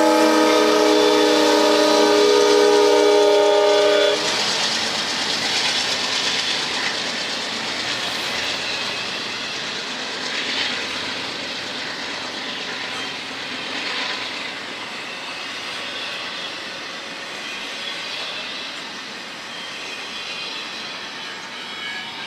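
Freight locomotive horn sounding one long blast of several notes at once, cutting off about four seconds in, as a CSX double-stack intermodal train rolls by. The container-laden well cars then pass with a steady rushing rumble and clatter of wheels on rail that slowly fades.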